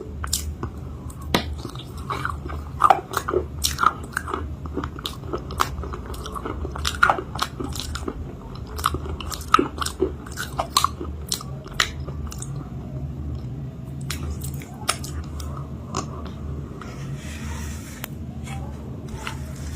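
Close-up biting and chewing of a homemade chalk-paste cake, giving a string of sharp crunches that come thick at first and then thin out, with softer chewing in between.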